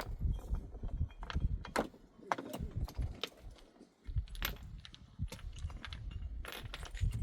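Irregular sharp knocks and clinks, several a second, over a low rumble, with a short lull about four seconds in.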